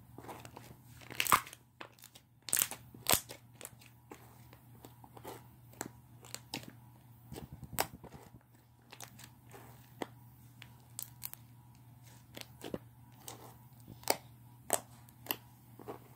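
Slime being kneaded and squished by hand, with irregular popping and crackling clicks as air pockets burst, a few louder pops in the first few seconds.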